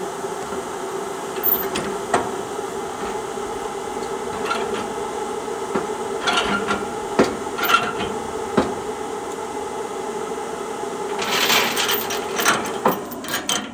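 Ratchet chain binder being cranked the last few turns on a trailer tie-down chain: scattered sharp metal clicks and clanks, with a denser run of them near the end, over a steady hum.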